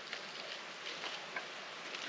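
Faint steady hiss of a wet forest just after a rain shower, with a few light scattered ticks of dripping water.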